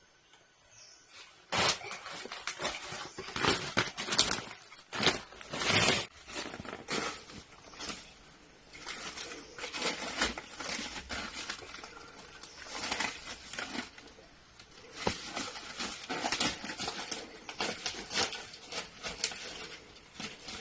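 Irregular rustling and crunching of dry material, with dense crackles and louder swells, starting about a second and a half in.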